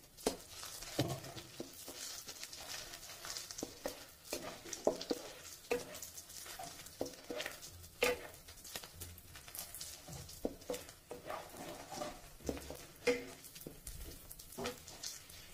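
Chopped onion, garlic and green chillies frying in oil in a kadhai, a faint sizzle under the irregular scrapes and knocks of a wooden spatula stirring against the pan.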